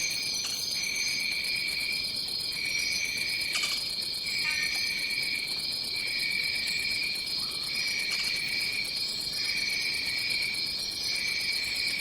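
Rainforest insect chorus: a steady high-pitched drone, with a second, lower trill that switches on and off every second or two. Faint short chirps sound above it now and then.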